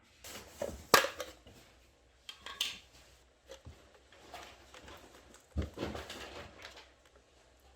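Scattered clicks and knocks mixed with rustling, from things being handled, with a sharp knock about a second in and another about halfway through.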